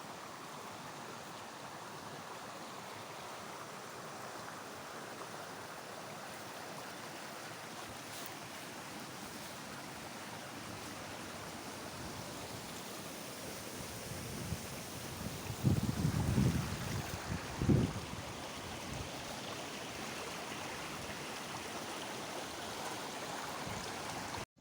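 Steady rush of flowing water. Two brief low buffets of wind on the microphone come about two-thirds of the way through.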